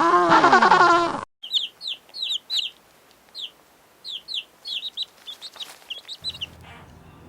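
A loud, drawn-out animal call that rises and falls in pitch and cuts off suddenly about a second in. It is followed by a run of about fifteen short, high, falling chirps from a small bird or chick.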